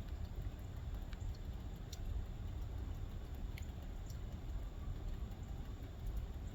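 Low steady background rumble with a few faint short ticks.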